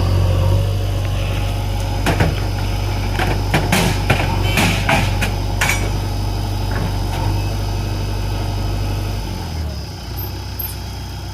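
Heavy diesel engine running steadily at a low, even note, with a burst of sharp knocks and clanks partway through. Near the end the engine note drops lower and quieter.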